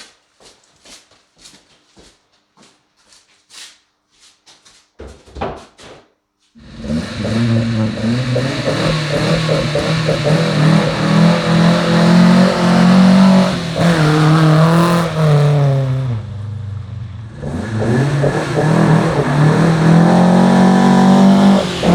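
Faint, evenly spaced taps, then about six and a half seconds in a Volvo 145's four-cylinder engine on twin Weber carburettors comes in loud, revving up and down as the car is driven. It drops back to a lower note for a moment and then revs up again near the end.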